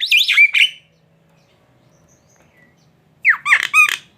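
Jalak (starling) calling: a burst of loud, sweeping whistled notes in the first second, a pause, then a second short burst of steeply falling notes about three seconds in.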